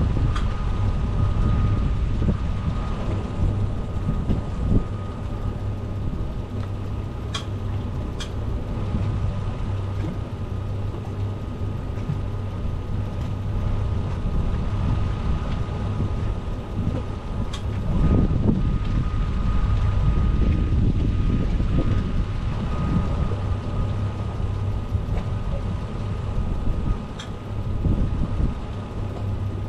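An engine running steadily with a low rumble, wind buffeting the microphone, and a few sharp clicks.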